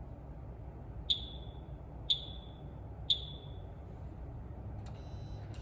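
Three short beeps about a second apart from a Tohatsu MFS outboard's warning buzzer, each a high tone that dies away quickly. Three beeps are the signal that the oil-change indicator reset has been completed successfully.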